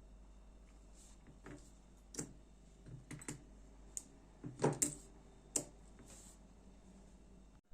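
Irregular light clicks and taps of a folding knife's small parts and tools being handled during disassembly, the loudest cluster about halfway through.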